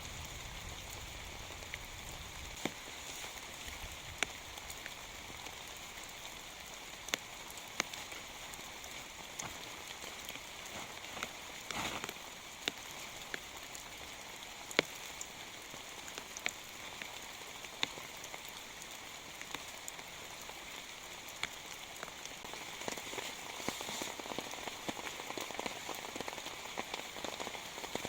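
Steady rain falling, with scattered louder drops ticking sharply close by. The rain grows a little denser near the end.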